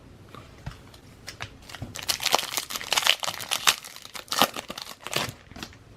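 A foil trading-card pack wrapper being torn open and crinkled: a run of crackly rustling that starts about two seconds in and lasts about three seconds.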